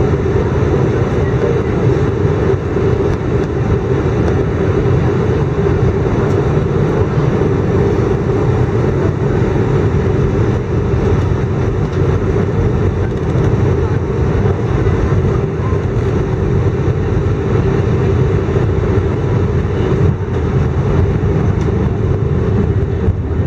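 Airbus A319 cabin noise in flight: a loud, steady drone of the engines and airflow heard from inside the passenger cabin, with a steady low hum under it.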